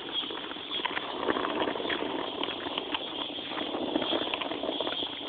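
Bicycle tyres rolling over a rough gravel road: a steady crunching hiss peppered with small clicks and rattles.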